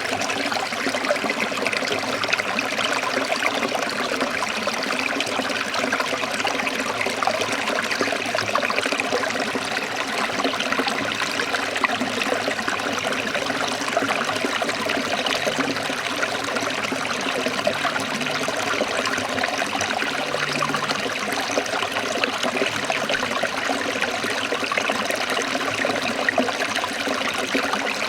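A forest stream trickling and splashing steadily over rocks, an even rush of water.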